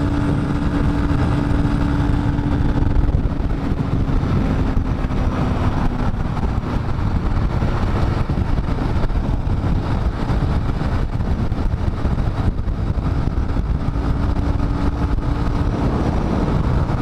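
Dafra Next 250 single-cylinder motorcycle engine running steadily while riding at speed, with heavy wind noise on the helmet microphone; the engine note dips slightly a few seconds in.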